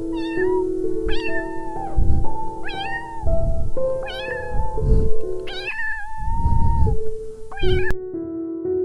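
Domestic cat meowing about six times, one call drawn out longer than the rest, over background music.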